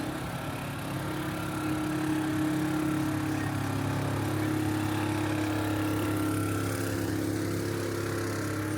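An engine idling steadily, a low even hum that holds without revving, over a haze of city street noise.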